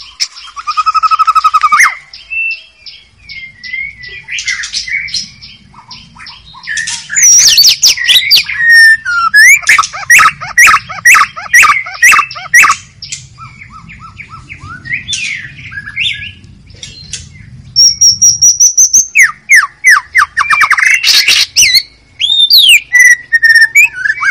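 White-rumped shama singing a long, varied song: clear whistled notes that glide up and down, mixed with fast runs of short clipped notes, in phrases separated by brief pauses.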